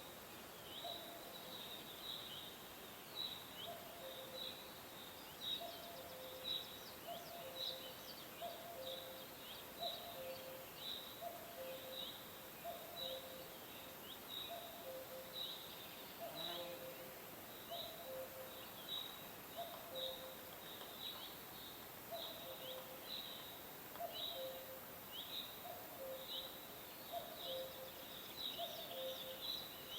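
Birds calling: short high chirps about once a second, over a lower two-note call repeated every second or so, with a faint steady hiss behind.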